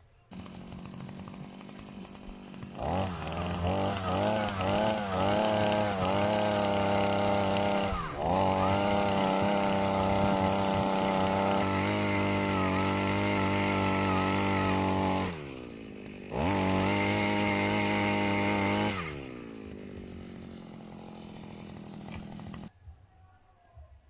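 Two-stroke chainsaw idling, then revved in several quick blips and held at high revs for long stretches with brief drops back, before returning to idle and cutting off near the end.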